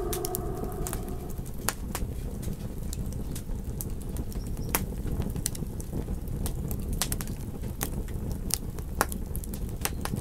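Campfire crackling, with sharp irregular pops and snaps over a low steady rumble. A wolf howl fades out about a second in.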